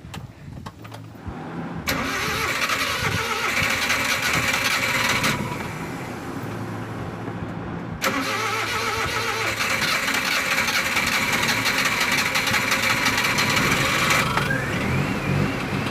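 Suzuki van's F6A three-cylinder engine being cranked and started, with a new distributor cap fitted to cure hard starting. Two loud spells of cranking and running, the first about two seconds in and the second about eight seconds in, with a quieter stretch between, then a rising note near the end as the engine runs.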